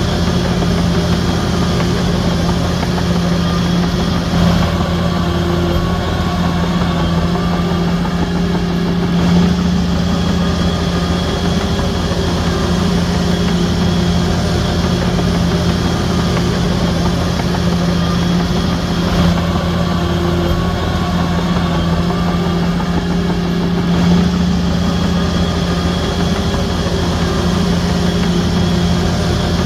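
Diesel engine of a Shantui DH17C3 crawler bulldozer running steadily, a constant low drone at an even level with slight shifts in load.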